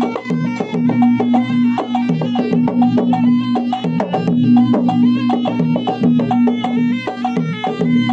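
Traditional Bugis-Makassar gendang drums beaten in a fast, dense, driving rhythm, with a steady sustained tone holding under the strokes.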